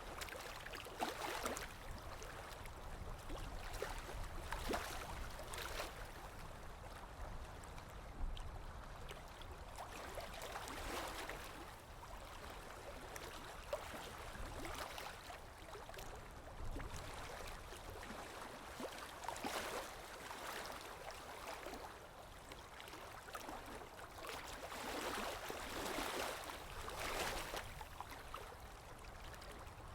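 Small waves lapping and breaking on a shore, swelling and fading every few seconds, with fine crackling splashes and a low rumble underneath.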